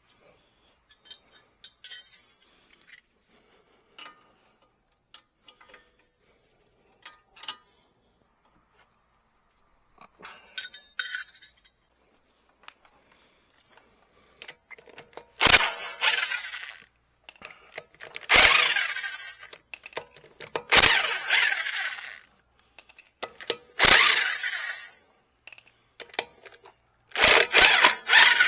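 Car work with tools: scattered light metallic clicks and clinks, then five loud, short bursts of a power tool, each about a second long and a few seconds apart.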